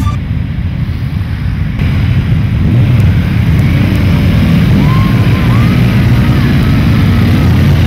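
Motorcycle engines running together in a low, steady sound that grows louder about two seconds in.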